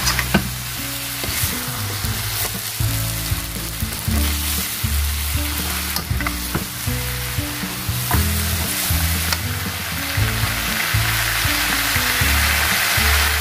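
Chicken, asparagus and broccoli stir fry sizzling in a hot pan over high heat, with scattered sharp clicks of the utensil against the pan as it is tossed. Background music plays low underneath.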